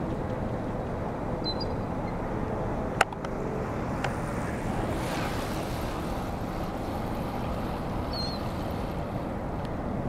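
Steady rushing noise of a snowstorm outdoors, with wind and traffic-like rumble, swelling briefly in the middle. A single sharp click comes about three seconds in, and two faint, short, high bird chirps come near the start and near the end.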